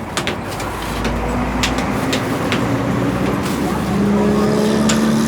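An engine running with a steady hum that grows louder about four seconds in, with scattered clicks and knocks over it.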